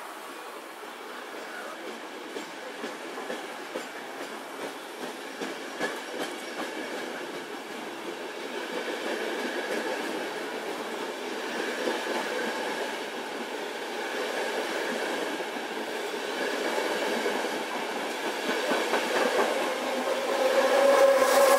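Trenord regional train of low-floor coaches, hauled by an FS E464 electric locomotive, departing and running past: a steady rolling rumble with the wheels clicking over rail joints, growing louder throughout. Near the end a louder whining tone comes in as the tail of the train passes.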